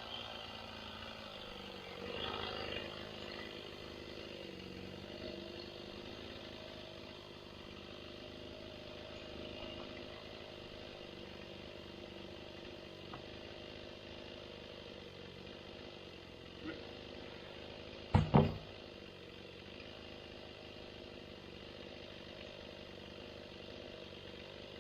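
Tractor engine running steadily, with two sharp knocks in quick succession about eighteen seconds in.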